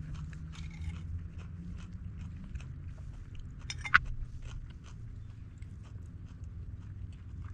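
Someone chewing and biting into crunchy food, a run of small crunches and clicks with one sharper crunch about four seconds in.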